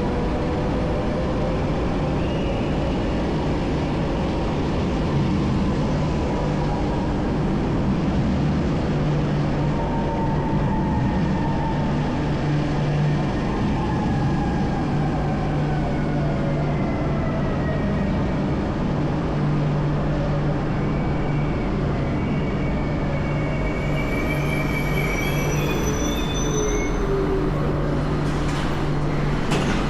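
Train running: a steady rumble and hum with a faint whine that slides down in pitch around the middle and rises again near the end.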